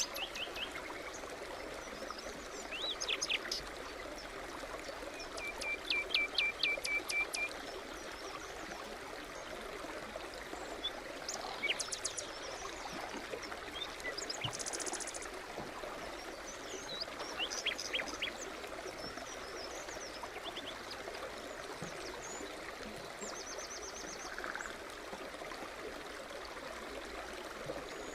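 Forest stream babbling steadily, with songbirds calling over it: a run of repeated chirps about six seconds in, a high buzzy trill near fifteen seconds, and a quick series of high notes near twenty-three seconds.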